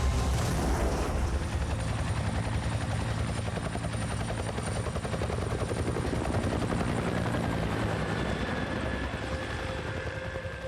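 Helicopter rotor beating fast and steady, growing gradually fainter toward the end.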